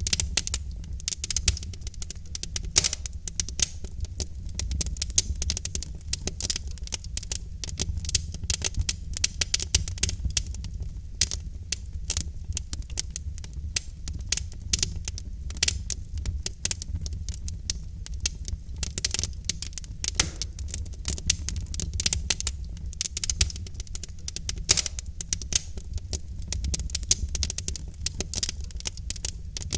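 Logs burning in a fireplace: dense, irregular crackling and popping over a steady low rumble.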